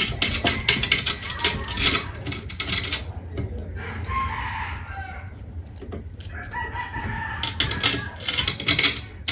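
A rooster crowing, with drawn-out calls in the middle. Quick sharp clicks and knocks come in the first few seconds and again near the end.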